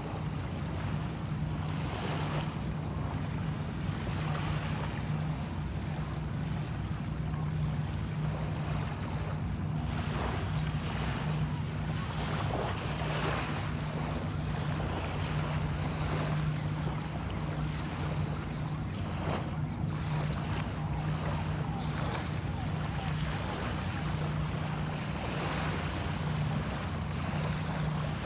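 Small bay waves washing in and out, over a steady low engine hum.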